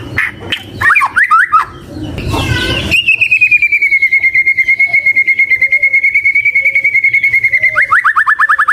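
White-rumped shama singing: a few quick sweeping chirps, then a long, fast trill held on one pitch for about five seconds, ending in a run of rapid downward-sweeping notes.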